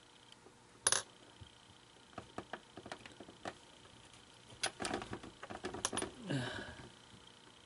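Small hard clicks, taps and rattles of parts and tools being handled at a workbench, with a sharp click about a second in and a busier run of clicks from about five to six seconds in.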